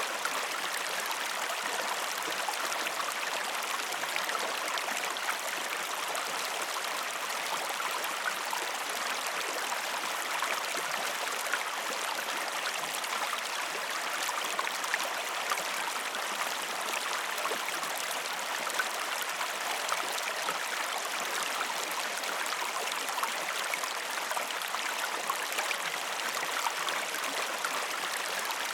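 Waterfall water splashing and rushing steadily, an even hiss with no deep rumble.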